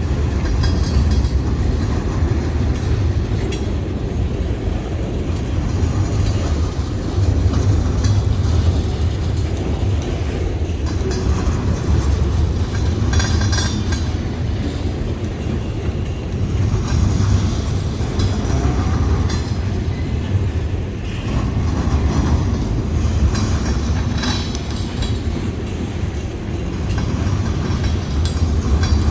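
Freight train rolling past, with a steady low rumble from the cars and wheels clicking over rail joints now and then.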